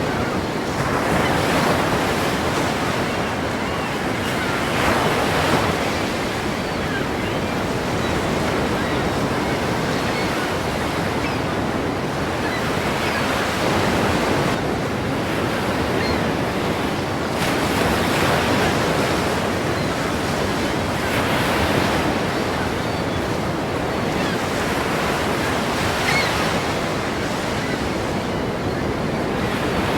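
Ocean waves crashing and washing in a continuous surf, swelling and easing every few seconds.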